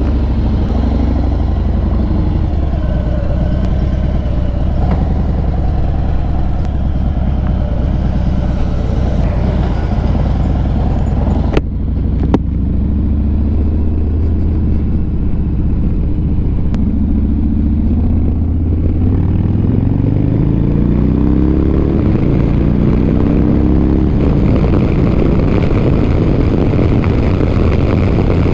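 Motorcycle engine idling steadily, with a couple of sharp clicks about twelve seconds in. It then pulls away, rising in pitch as it accelerates, heard through a helmet-mounted microphone.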